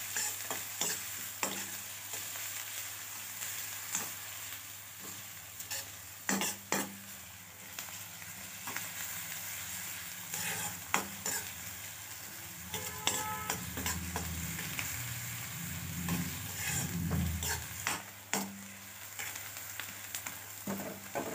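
Chopped onion and garlic sizzling in hot oil in a metal kadai while being sautéed, with a metal spoon stirring and now and then scraping and clicking against the pan.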